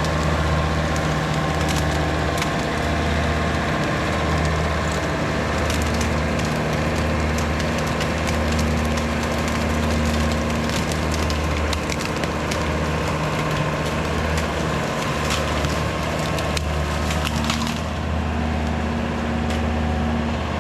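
Woods BushBull rotary cutter behind an LS MT573 tractor shredding bamboo: repeated sharp cracking and splintering of stalks over the steady drone of the tractor's diesel engine.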